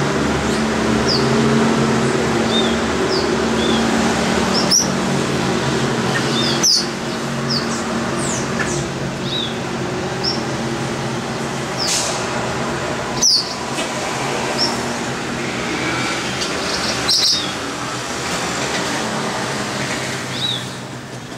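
Several small birds chirping and calling, with short high notes scattered through, over a steady low hum.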